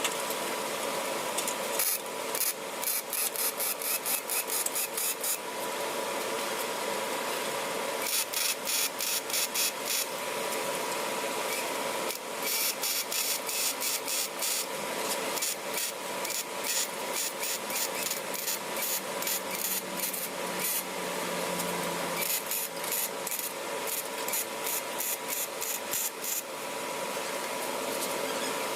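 Arc welding on an exhaust pipe with an AC stick welder (buzz box): a steady crackling sizzle with a faint hum, broken by several spells of fast rasping crackle, as holes in the pipe and hangers are welded up.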